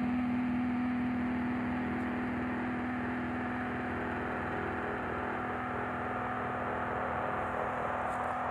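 A steady, unchanging drone: an even hiss with a constant low hum tone in it.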